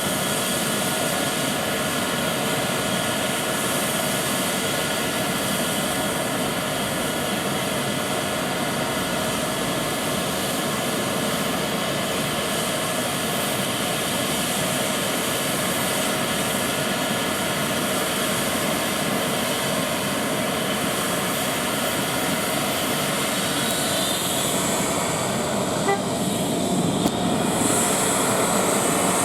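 EC-135 helicopter's twin turboshaft engines and rotor running steadily, with a constant turbine whine. A little before the end some tones shift in pitch, and the sound then grows slightly louder and brighter.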